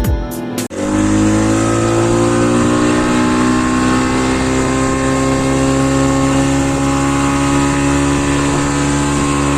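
Speedboat engine running at speed, its pitch rising a little over the first couple of seconds after it cuts in, then holding steady.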